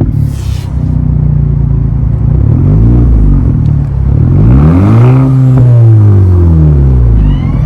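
2011 Audi A4 2.0T's turbocharged four-cylinder engine being revved through a 3-inch cat-back exhaust with a Street Demon muffler. A short hiss at the start as the revs drop, a couple of small blips, then a longer rev that climbs to a peak about five seconds in and falls back to idle.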